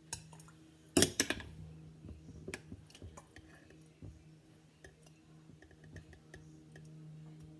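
Kitchen clatter of glass canning jars and utensils being handled: a loud burst of clinks about a second in, then scattered light clicks and knocks. A steady low hum runs underneath.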